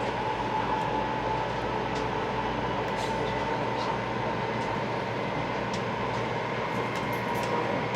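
Steady running noise of a 500 series Shinkansen heard from inside the passenger cabin, with a steady whine near 1 kHz over a constant rush and a few faint ticks.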